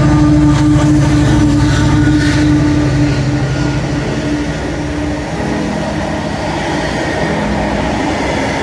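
Class 70 diesel-electric freight locomotive passing close with its engine's steady drone, fading after about five seconds. The train of container flat wagons then rolls by with steady wheel and rail noise.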